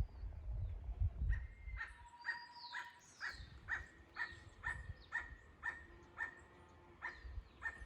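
A distant animal giving a long series of short, evenly repeated calls, about two a second, starting about a second in. A few higher, falling whistled notes come in between the calls early on.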